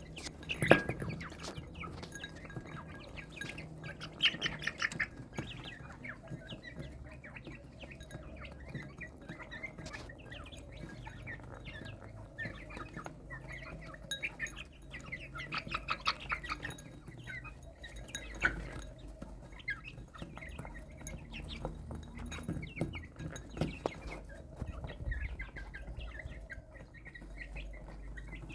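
Chicks peeping in scattered bursts of short, rapid high calls, with quieter spells in between.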